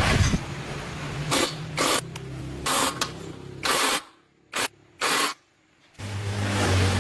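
Six short hissing spray bursts, each under half a second. A low hum runs beneath them, stops about four seconds in and returns louder near the end.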